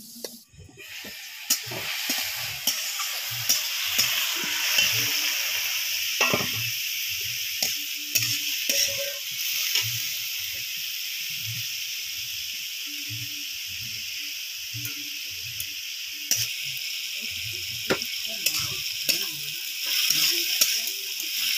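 Shredded cucumber sizzling in a hot iron kadai while a metal spatula stirs it, with repeated scraping knocks of the spatula against the pan. The sizzle starts about a second in and then holds steady.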